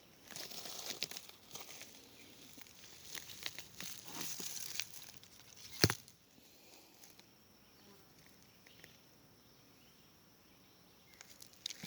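Crunching footsteps over dry leaves and stones for about the first five seconds, with one sharp knock about six seconds in. After that it goes quieter, with a faint steady high-pitched hum.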